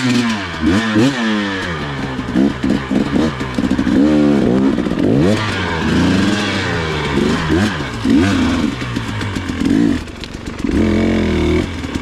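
Dirt bike engine revving up and down over and over as the throttle is worked, with clattering knocks from the bike over rough ground.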